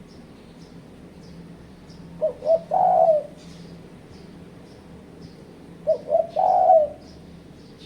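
Spotted dove cooing: two short notes followed by a longer coo, a phrase given twice about three and a half seconds apart. Faint high chirps from a small bird repeat in the background.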